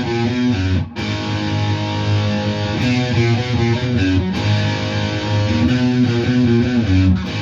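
Electric guitar playing a rock riff on the low strings. The phrase repeats, with brief breaks about a second in and again around four seconds.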